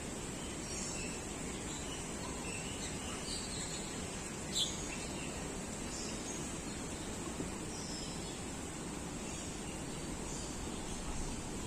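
Assorted birds chirping with short, scattered high calls over a steady background hiss, and one sharp, loud call about halfway through.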